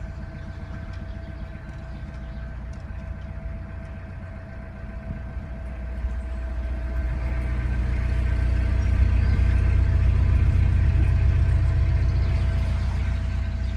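Narrowboat's diesel engine running steadily under way, with a deep rumble that swells noticeably from about halfway through and then eases slightly near the end.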